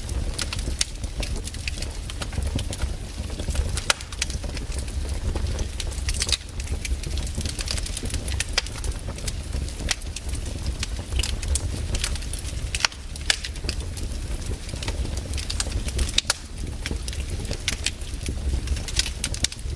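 Wood campfire burning, with irregular crackles and pops over a steady low rumble.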